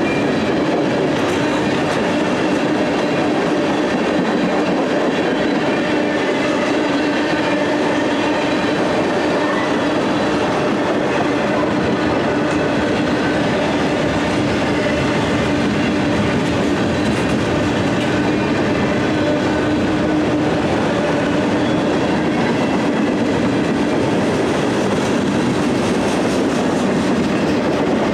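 Freight train rolling past at steady speed, its wheels running over the rails with a continuous loud clatter and a few steady tones held underneath.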